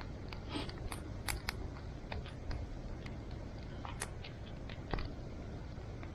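Campfire crackling: irregular sharp snaps and pops over a steady low rush.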